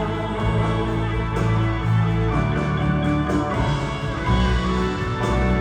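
Live band playing an instrumental passage of a pop ballad, with guitar to the fore and no singing.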